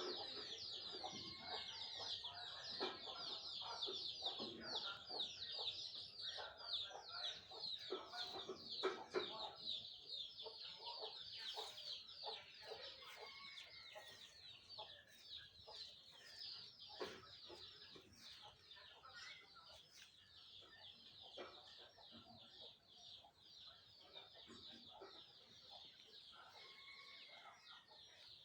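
Many birds calling at once: a dense, continuous chatter of short, high chirps with lower calls scattered beneath. It grows quieter after about ten seconds.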